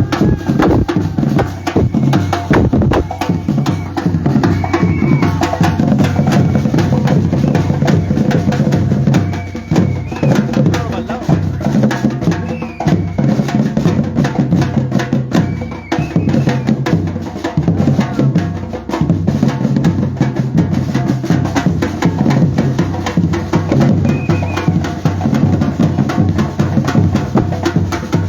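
Batucada percussion band playing a fast, driving rhythm on drums, with deep bass drums under many quick strokes.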